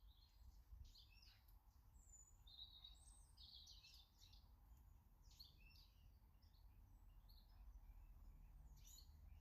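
Faint garden songbirds chirping and calling, many short notes in quick succession, over a steady low background rumble.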